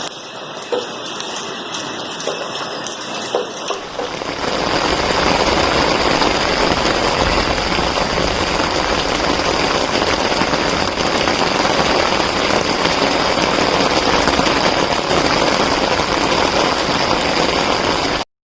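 Rain falling, with separate drops ticking at first; about four seconds in it turns into a louder, steady downpour, which cuts off suddenly near the end.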